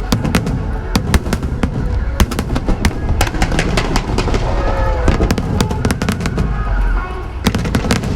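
Fireworks display: a dense run of aerial shells going off in quick succession, sharp bangs and crackles over a continuous low rumble.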